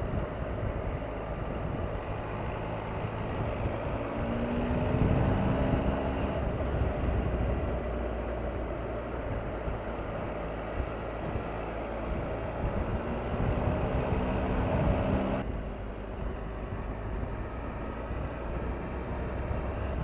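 Triumph Tiger 1200's three-cylinder engine running as the motorcycle is ridden, with wind and road noise. The engine note rises twice as it accelerates and drops suddenly about fifteen seconds in as the throttle is closed.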